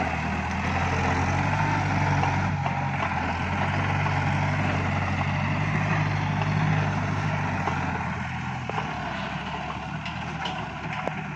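Iseki NT554 tractor's diesel engine running steadily, getting somewhat quieter after about eight seconds.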